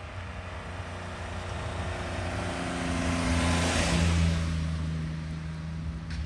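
A car driving past, its engine and tyre noise growing louder to a peak about four seconds in, then fading as the engine note drops in pitch.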